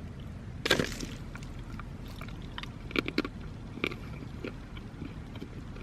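A person eating a snack: a few short crackles and clicks of chewing and handling, the loudest about a second in and a cluster around three to four seconds.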